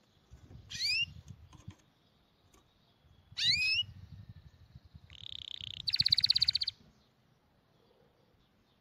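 A small bird chirping: two short whistled calls that rise sharply in pitch, then a rapid buzzy trill about six seconds in.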